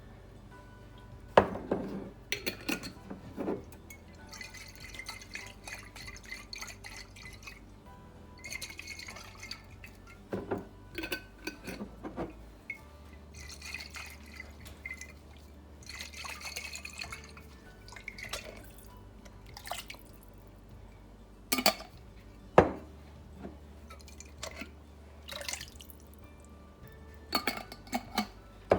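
Chicken broth sloshed and swirled inside glass spaghetti-sauce jars and poured out to rinse the leftover sauce, with the glass jars clinking and knocking sharply a few times.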